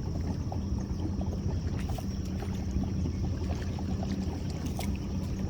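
Boat motor running steadily at low speed with a low hum, while the boat works along a crab trotline; scattered small clicks and drips sound over it.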